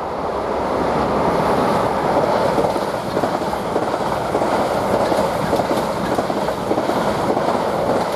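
Two coupled Class 444 Desiro electric multiple units passing through the station at speed: a steady, loud rumble of wheels on rail, with faint clicks as the wheels cross rail joints.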